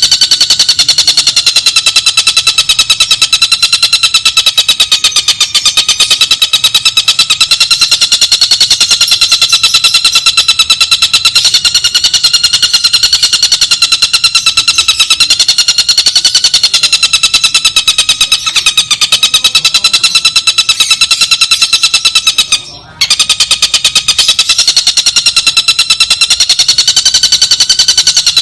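Bird-song training recording: a bird's very fast, steady trill that runs on almost without a pause, its pitch wavering slightly, with one short break about 23 seconds in.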